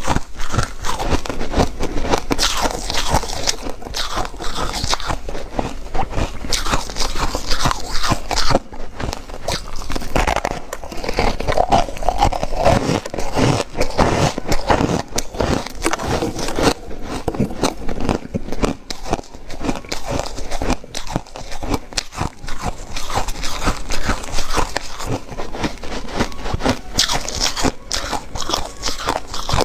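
A person biting and chewing ice close to the microphone, with continuous crunching and crackling.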